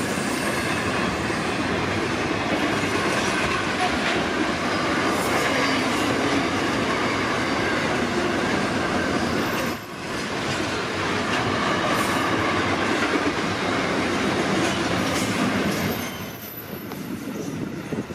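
A fast freight train's wagons rolling past, a loud steady rush of wheel and rail noise. There is a brief dip about ten seconds in, and the noise falls away near the end as the last wagons pass.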